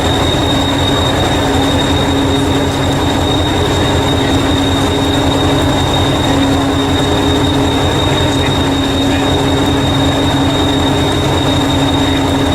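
Miniature steam locomotive LNER 458 standing in steam, giving a steady loud hiss and rumble with a constant high whine over it.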